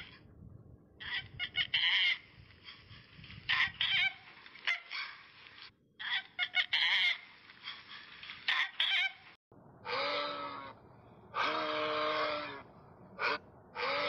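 Animal calls: a run of quick, squeaky chattering calls, then from about ten seconds in a few longer, lower calls with a clear pitch.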